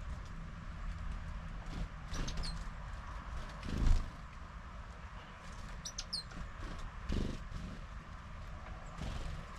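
Small birds at a garden feeder giving a few short, high chirps about two seconds in and again about six seconds in, over a low steady rumble. Dull thumps come in between, the loudest about four seconds in.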